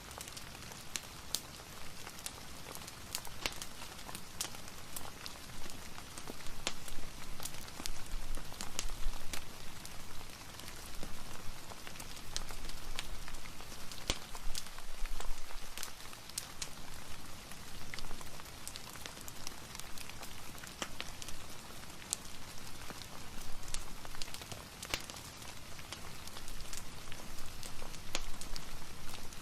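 Steady rain hiss mixed with a fireplace's scattered sharp crackles and pops.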